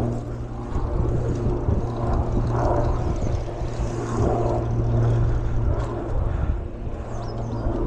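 Wind buffeting the microphone of a riding cyclist, an uneven low rumble, over a steady low hum.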